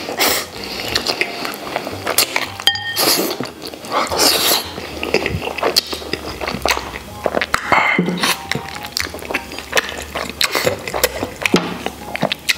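Close-miked eating sounds: wet chewing, sucking and lip-smacking while gnawing soft, sticky braised pig tail off the bone, full of short wet clicks.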